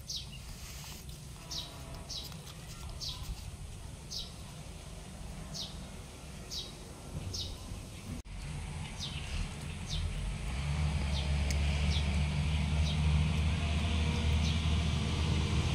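A small bird chirps over and over, a short high falling note about every second. Partway through, a low engine rumble comes up and grows louder.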